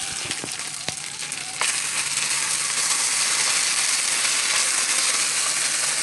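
Potatoes, onion and steak pieces sizzling in hot oil in a nonstick frying pan as they are stirred with a spatula, with a couple of clicks of the spatula against the pan in the first second. The sizzle gets louder about a second and a half in and stays steady.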